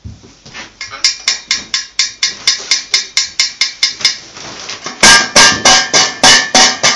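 A hungry pet parrot making a rapid run of sharp, repeated sounds, about six or seven a second, then a louder, slower run of about three a second near the end.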